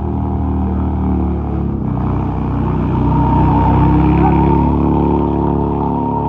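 Heavy motorcycle engine running, growing louder through the middle and then easing off.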